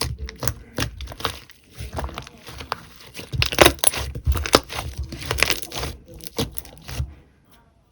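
Slime being squeezed and pressed by hand, giving a fast, irregular string of sharp clicks, pops and crackles.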